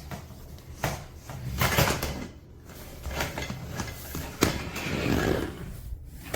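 Handling of hard plastic vacuum-cleaner parts: irregular rustling with several knocks and clicks as an attachment is fitted on. The vacuum motor is not running.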